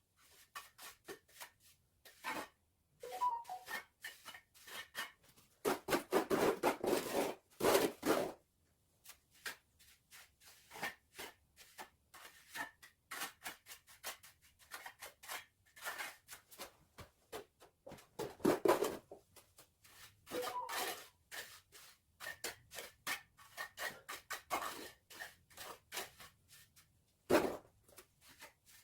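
Trowel scraping and smoothing cement mortar in quick repeated strokes, with longer, louder scrapes about six to eight seconds in and again near nineteen seconds.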